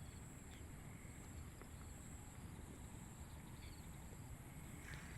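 Quiet outdoor countryside ambience: a steady high insect drone over a low rumble, with a few faint short chirps.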